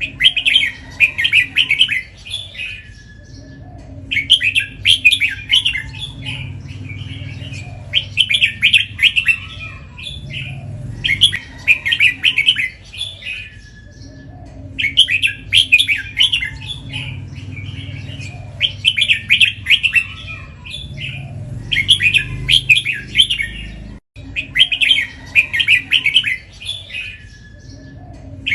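A red-whiskered bulbul singing its song over and over, a burst of bright phrases about two seconds long every three to four seconds. The phrases come doubled (เบิ้ล), the repeat prized in bulbul song contests. A steady low hum lies underneath.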